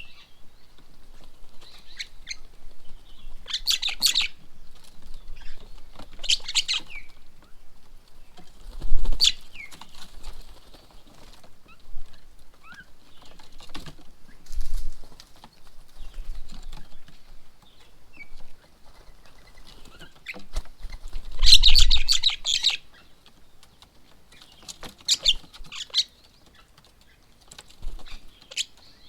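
Birds at a feeding table giving short bursts of harsh, chattering calls every few seconds, the longest about three-quarters of the way through, with a few low thumps in between.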